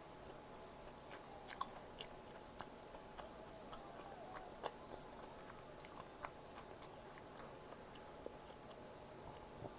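A person chewing food softly with the mouth close to the microphone, with scattered small wet mouth clicks.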